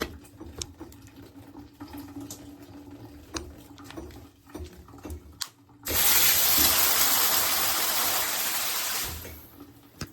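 A few quiet clicks and knocks, then about six seconds in water bursts out in a loud, steady spray from the handheld shower head. It runs for about three seconds, then tails off and stops.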